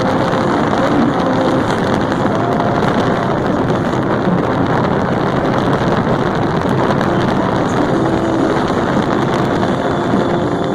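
Motorcycle engine running steadily at road speed, with a constant rush of wind on the microphone.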